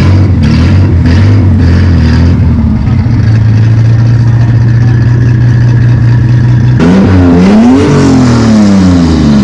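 Car engine idling steadily, then revved twice near the end, the second rev rising higher and falling back slowly to idle.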